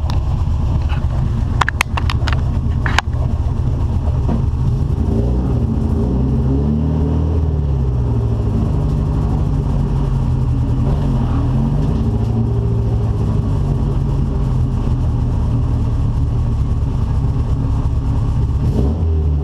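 Alfa Romeo car engine running hard, its note falling and rising several times with throttle and gear changes. There are a few sharp clicks in the first three seconds.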